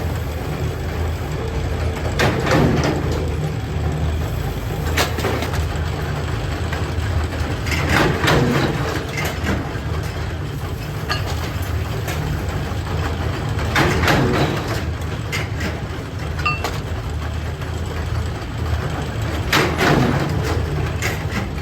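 Factory machinery running with a steady low hum, with a louder burst of clanks about every six seconds, four times in all, as the machine works through a repeating cycle.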